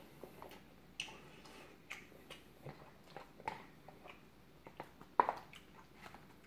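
Chewing a mouthful of noodles, with scattered small clicks of chopsticks against the noodle cup and one sharper knock about five seconds in.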